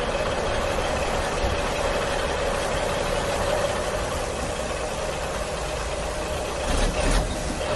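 Steady engine-like running sound: a low rumble under a constant hum, getting louder briefly near the end.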